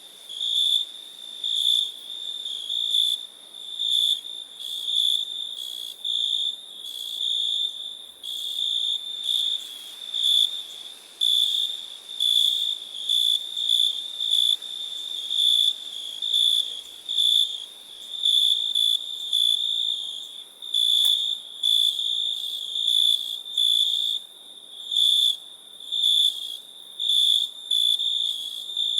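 Crickets chirping: a steady high trill that swells and fades about once a second, over a faint background hiss.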